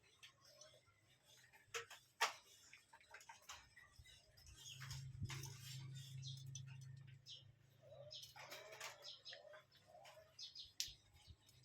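Faint bird chirps among scattered light clicks and taps, with a low hum for a few seconds in the middle.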